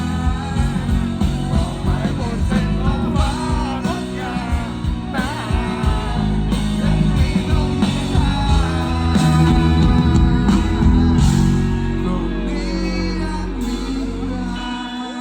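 Rock band playing with a singing voice over guitar, bass and drums. The low end and drums drop out near the end as the song winds down.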